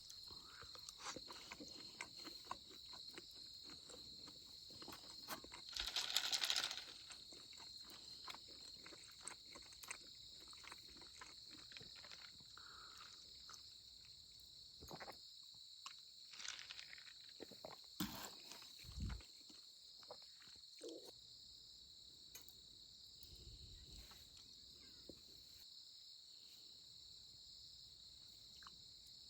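Crickets chirping steadily in high, unbroken trills, with scattered small clicks and rustles and a brief louder rustle about six seconds in.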